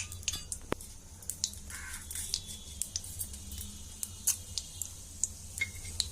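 Urad dal frying in hot oil: scattered small pops and crackles over a low steady hum.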